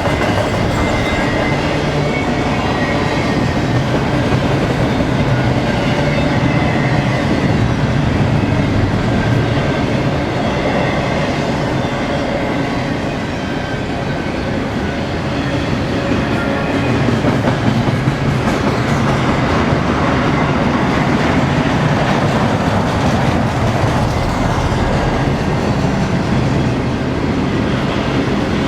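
BNSF intermodal freight train's cars rolling past, steel wheels running on the rails with a steady, continuous rumble.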